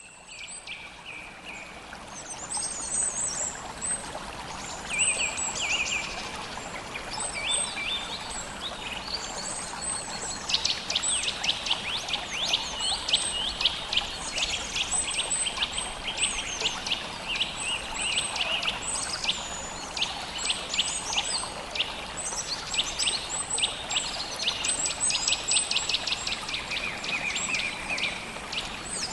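Mountain stream flowing steadily, with songbirds chirping in rapid high runs over it; the birdsong is the loudest thing. Fades in over the first couple of seconds.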